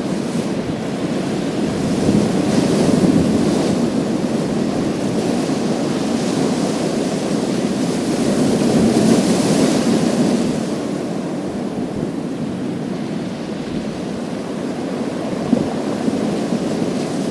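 Waves breaking on a pebble beach, the surf washing over the stones. It swells twice, about two seconds in and again around nine seconds, the second time with a brighter hiss.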